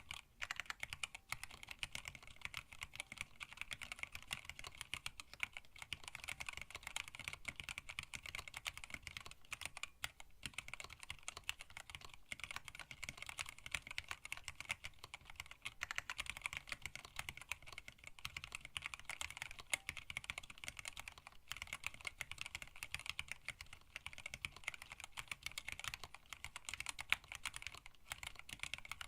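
Fast, continuous typing on a hand-wired split mechanical keyboard with Tealios linear switches, blank PBT keycaps and a stacked acrylic case: a rapid, unbroken run of keystroke clacks.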